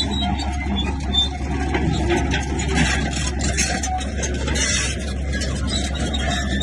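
Diesel engine of a heavy earthmoving machine, a bulldozer or dump truck, running steadily under a constant low drone, with irregular scraping and clatter on top.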